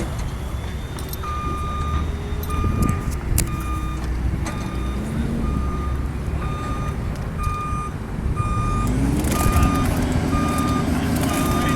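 John Deere 310J backhoe loader backing up: its reverse alarm beeps about once a second over the running diesel engine. A few sharp knocks sound about three seconds in, and the engine revs up and gets louder near the end.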